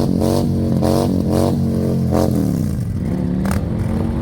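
Motorcycle engine running at raised revs, which drop away about two and a half seconds in, with a short sharp click near the end.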